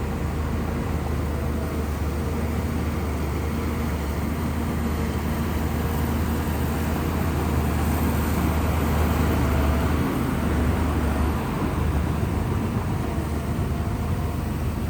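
Shantui bulldozer's diesel engine running steadily under load, a low continuous drone that swells slightly past the middle and dips briefly about two-thirds of the way through.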